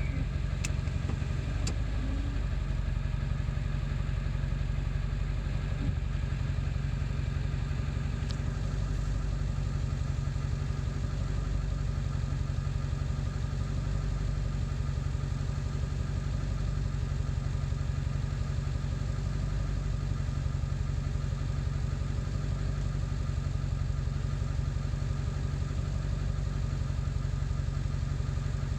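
Ford 7.3 Power Stroke turbo-diesel V8 idling steadily. It still idles rough after the injection control pressure (ICP) sensor was replaced.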